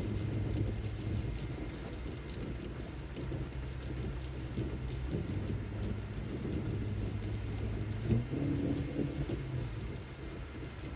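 Steady low rumble and drone of a car driving, heard inside the cabin while the car is shaking; a single thump about eight seconds in.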